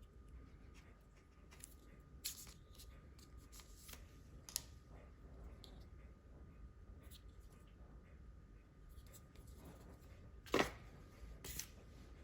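Faint handling of small tools and parts on a work surface: light rustling with a few scattered clicks and taps, the loudest a sharp click about ten and a half seconds in.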